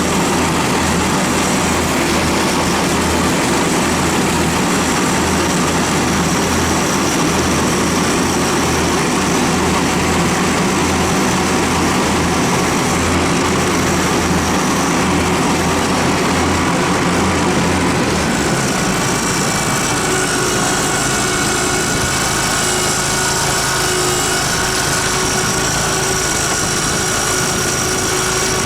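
Kohler engine of a Dixon zero-turn mower running steadily. About two-thirds of the way through its sound changes: the low throb drops away and higher steady whines come in.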